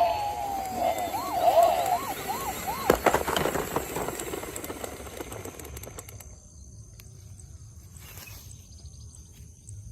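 A toy emergency vehicle's electronic siren sliding down in pitch, then warbling rapidly up and down for about a second before it stops. A clatter of sharp knocks follows about three seconds in, then it goes quieter.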